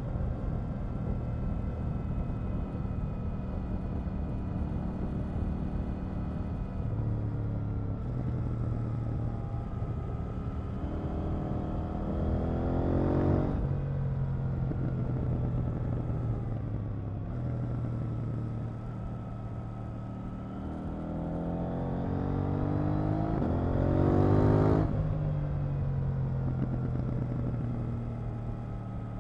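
KTM 890 Duke R's parallel-twin engine running under way, mostly at steady revs. Twice, about halfway and again near the end, the revs climb over several seconds and then drop off suddenly.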